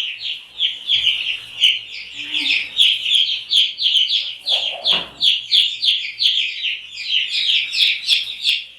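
A brood of young chickens peeping nonstop: many short, high cheeps that overlap, each sliding down in pitch.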